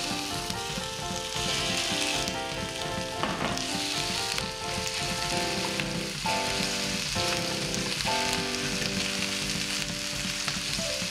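Food sizzling as it fries in a hot pan, a steady hissing sizzle, with background music playing.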